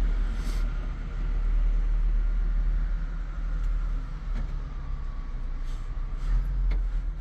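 Steady low rumble with a faint hum and a few light clicks and knocks.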